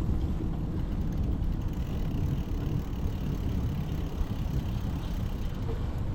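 Steady low rumbling noise from riding a bicycle along a city street: wind buffeting the microphone mixed with road and traffic noise.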